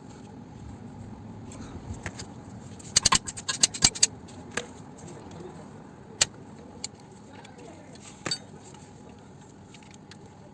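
Metal hand tools clinking against bolts and metal parts while a tight oil-sump bolt is worked with an Allen key: a quick cluster of sharp clinks about three seconds in, then single clinks now and then.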